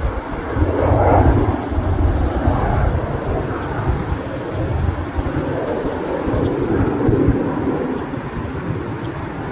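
Learjet 35A's twin Garrett TFE731 turbofans roaring on takeoff, a deep rumbling jet noise that slowly fades.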